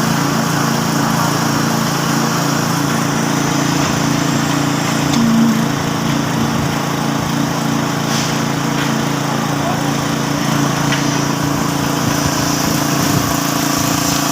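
Small engine running steadily at a constant speed, with a few faint clicks and a brief swell in loudness about five seconds in.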